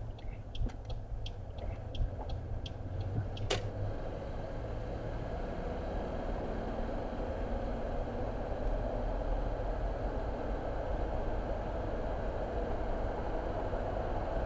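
A car's turn indicator ticks inside the cabin, about two or three ticks a second, and stops with a click about three and a half seconds in. After that comes the steady low rumble of the car driving, engine and road noise.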